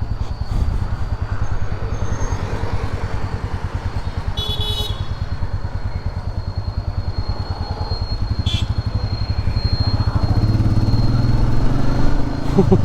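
Royal Enfield Meteor 350's single-cylinder engine running under way, with a steady low pulsing beat that grows louder over the last few seconds as the bike pulls harder. A short horn beep sounds about four and a half seconds in.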